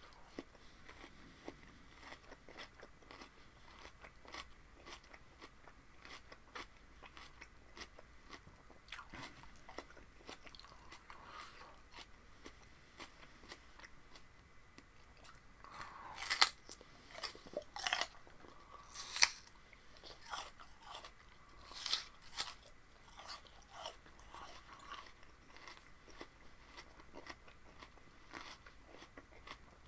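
A person chewing and crunching raw vegetables close to the microphone: steady small wet clicks of chewing, with a run of louder crunchy bites about halfway through.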